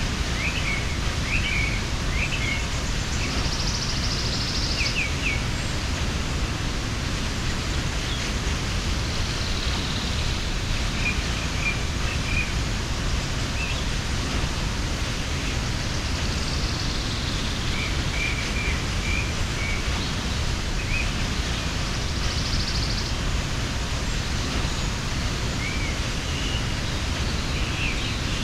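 Mountain waterfall rushing with a steady, even roar of falling water. Small birds chirp briefly now and then above it, and a short high buzzy trill comes twice.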